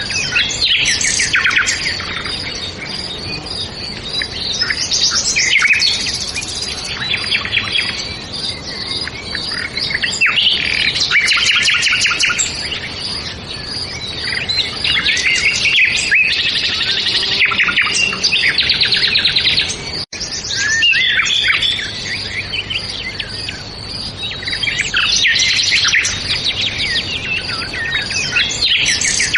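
Several birds singing and chirping at once in a continuous chorus of quick trills and chirps, with a momentary break about two-thirds of the way through.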